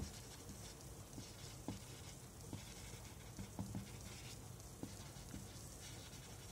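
Faint, irregular taps and light scratches of a pen or marker writing.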